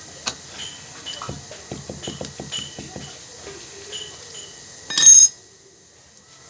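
Small metal clinks and taps of tools and parts being handled during a washing-machine gearbox repair, including a quick run of light taps, with one loud brief clatter about five seconds in.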